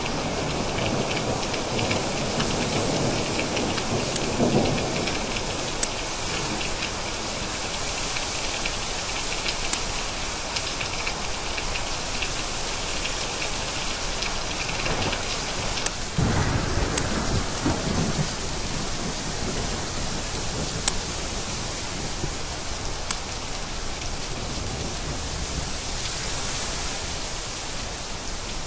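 Steady heavy rain with thunder: a low rumble swells about four seconds in and a stronger one about sixteen seconds in, and a few sharp ticks of close raindrops stand out now and then.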